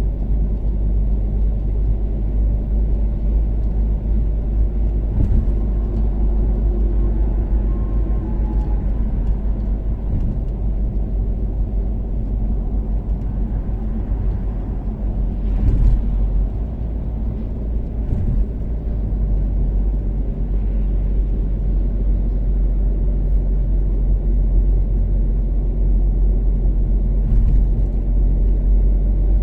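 Toyota Caldina's 3S-GTE turbocharged four-cylinder engine and tyre noise while cruising steadily at expressway speed, a constant low rumble. A few brief thumps are heard from the road surface.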